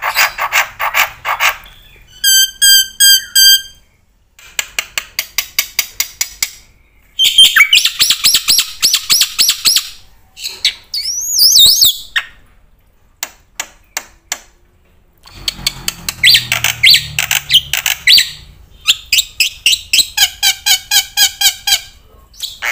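A bird singing a long, varied song: runs of fast repeated notes, steady whistled notes, trills and a rising-and-falling glide, with short pauses between phrases.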